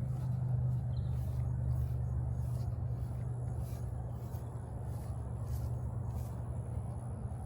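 Steady low engine hum, like distant road traffic, slowly fading, with faint regular ticks about twice a second.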